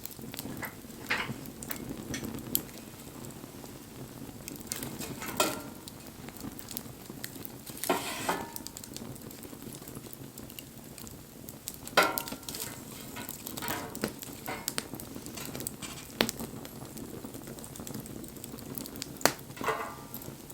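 Wood bonfire crackling, with irregular sharp pops from the burning wood every few seconds over a steady low rushing of the flames.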